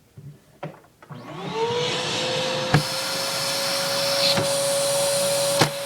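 Vacuum cleaner switched on about a second in, its motor spinning up in a rising whine and then running with a steady high whine and rushing air, supplying the suction that drives a Lego vacuum engine. Two sharp clicks sound over it.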